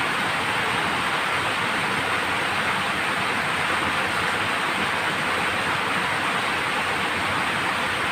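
Heavy rain pouring in a steady, even hiss with no letup.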